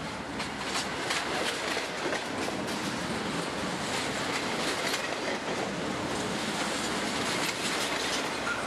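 Double-stack intermodal train's loaded well cars rolling past close by, steel wheels running with a steady rumble and repeated clicks over the rail joints.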